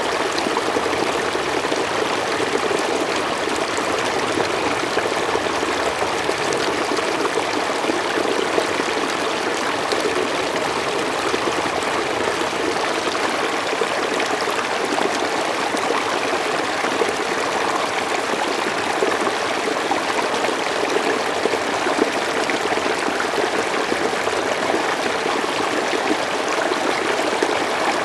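Mountain stream flowing steadily over rocks, an even rushing and burbling of water.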